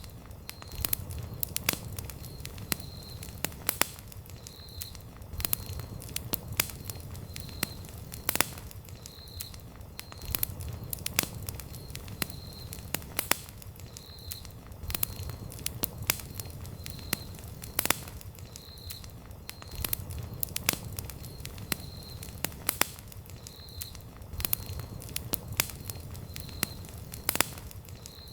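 Wood campfire crackling, with irregular sharp pops and snaps over a low steady rumble of burning logs. A faint high note repeats about once a second.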